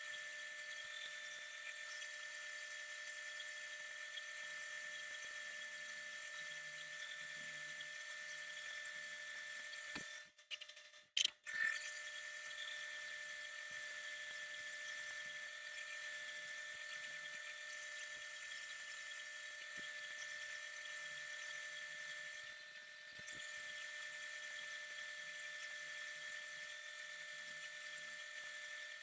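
An electric power tool's motor running with a steady high-pitched whine, briefly stopping with a couple of clicks about ten seconds in before running on.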